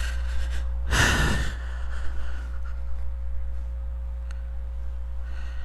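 A person sighs or exhales once, briefly, about a second in, over a steady low hum.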